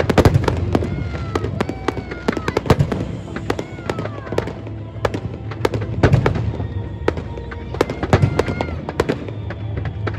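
Fireworks going off in rapid succession: many sharp bangs and crackles, with the loudest bursts just after the start and again about six and eight seconds in.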